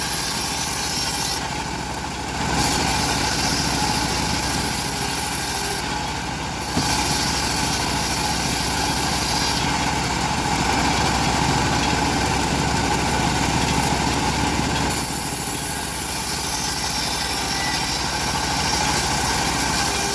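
Engine-driven bandsaw mill running steadily while its blade cuts a teak log, a loud engine drone under a bright hiss. The hiss and loudness dip briefly twice in the first seven seconds.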